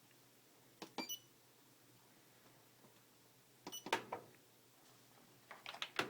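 Fisher & Paykel Aquasmart washer clicking and clacking in three short bursts, the first with a few brief high beeps, as it is tried and fails to start. The owner takes the fault for a lid lock that does not engage.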